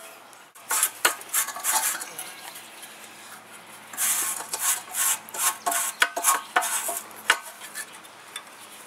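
Metal exhaust parts clanking and scraping in irregular bursts, with several sharp knocks, as a stock muffler is twisted and worked loose from a Crown Victoria's H-pipe by hand.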